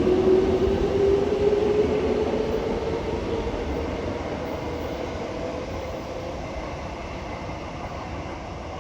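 Toyo Rapid Railway 2000 series electric train pulling away: the whine of its traction motors rises steadily in pitch as it accelerates, while the running noise fades as the train moves off.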